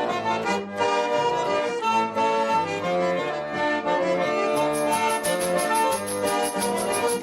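Instrumental introduction to a Russian folk-style song played on a garmon (Russian button accordion): a tune over held chords. A quick, high, even tapping rhythm joins about halfway through.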